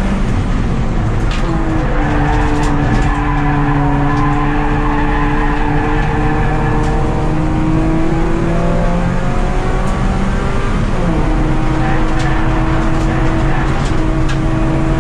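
Mazda 2 race car's four-cylinder engine heard from inside the cabin while lapping the track, pulling steadily with its note changing pitch with gear changes about two seconds in and again about eleven seconds in.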